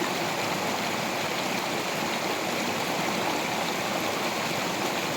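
Stream water flowing over rocks, a steady rushing and burbling.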